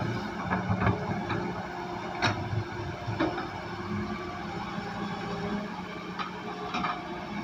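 Heavy excavator working: its diesel engine runs steadily while sharp metallic clanks and knocks sound every second or two.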